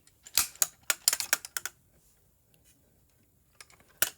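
A run of sharp clicks and taps, about a dozen in the first two seconds, then one loud click near the end: parts of a large diecast model car being handled, opened and closed.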